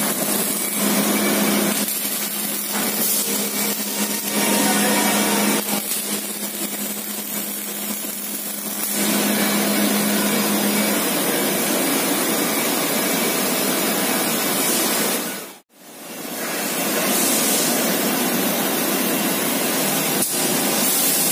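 Steady, loud din of workshop machinery and power tools in an exhaust-silencer factory, with a steady hum that stops about halfway through. The sound cuts out for a moment about three quarters of the way in, then resumes.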